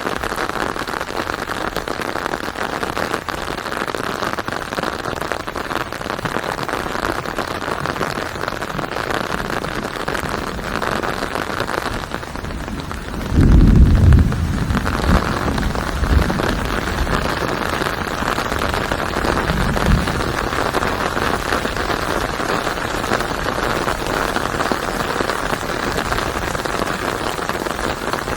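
Steady heavy rain. About halfway through, a loud low rumble of thunder, followed by two fainter rumbles.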